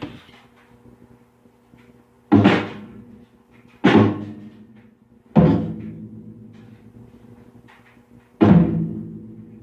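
A drum kit struck four times with single, heavy hits, each ringing out slowly. The first three come about one and a half seconds apart, and the last follows after a three-second pause.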